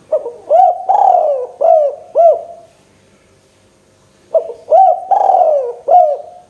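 Spotted dove (tekukur) cooing: two song phrases, each a run of four or five low, rounded coo notes, the second starting about four seconds in.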